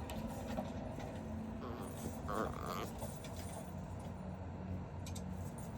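Dachshund puppy making small, soft noises a couple of seconds in, over a steady low hum.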